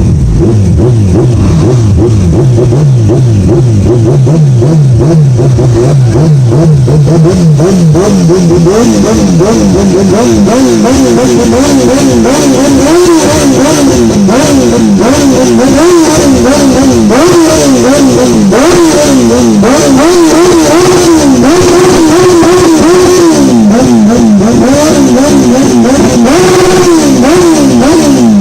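A sports car or superbike engine being revved loudly, its pitch climbing slowly at first, then blipped up and down again and again about once a second.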